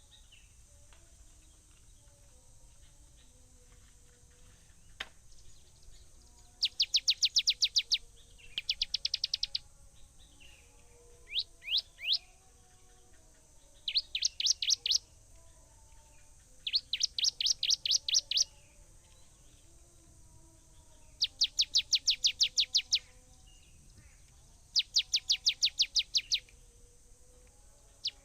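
A bird singing a fast trill over and over: bursts of about a dozen quick high notes, each burst lasting a second or so, repeated every two to three seconds. A steady high hiss runs underneath.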